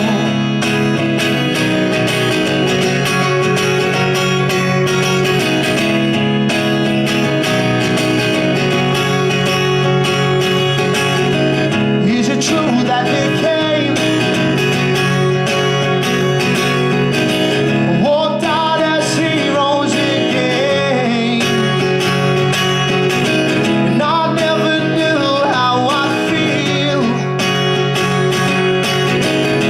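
Live acoustic guitar strummed steadily under a man's singing voice, the sung lines coming in phrases with short gaps between them.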